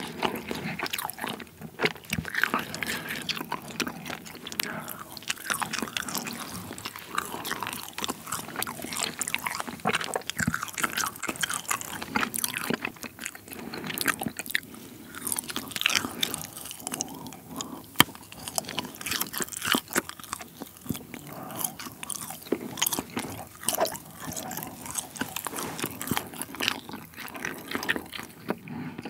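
Close-miked chewing of a dried mala-seasoned squid strip: a steady run of irregular short clicking chewing sounds.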